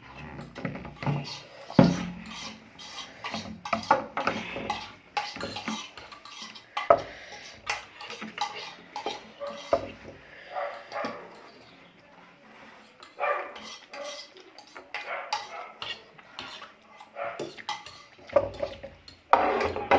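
Cutlery clinking and scraping against a plate while eating, in short irregular knocks.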